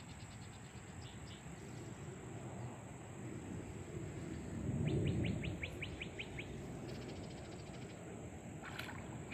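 Outdoor background with a bird calling in a rapid, evenly spaced rattling series of short notes about halfway through, joined by a brief low rumble. Fainter runs of similar notes come near the start and end.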